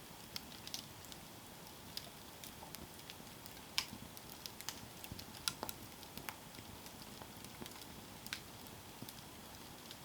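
Campfire crackling: wood burning with irregular sharp pops and snaps over a soft steady hiss, a few pops louder than the rest.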